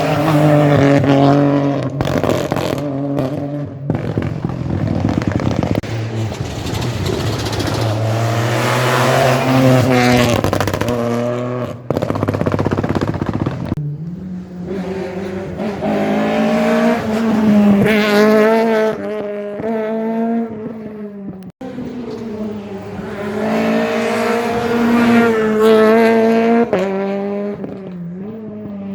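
Rally cars at full throttle on a tarmac special stage, engines revving high and dropping through gear changes and braking, in a series of separate passes one after another.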